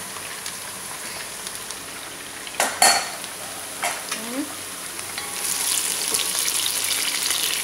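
Chicken pieces sizzling in oil in a frying pan, with a few sharp clicks of a metal utensil against the pan about three seconds in. From about five seconds in, the louder, denser sizzle of sliced onions frying in oil.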